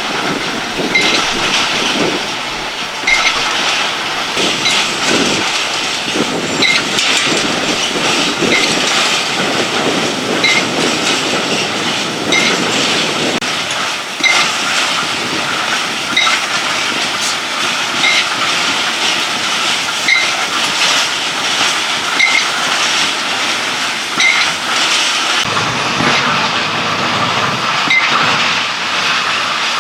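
A machine or vehicle running steadily, with a short high squeak repeating about once a second.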